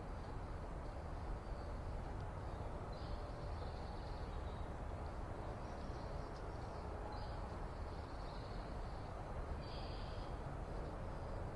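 Small birds giving short, high chirps again and again over a steady low background rumble, with a louder burst of calls near the end.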